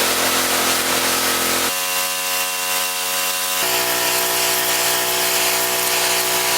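Gasoline high-pressure washer running: its small engine and pump keep a steady tone under a loud hiss. The pitch and tone change abruptly twice, about two and three and a half seconds in.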